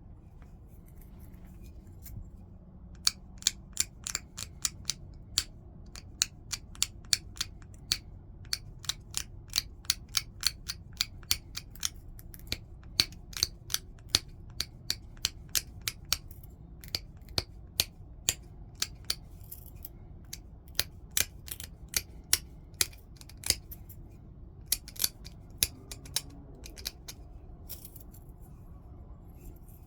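Flintknapping: sharp, short clicks of a tool working the edge of a stone point, in runs of about two a second with brief pauses.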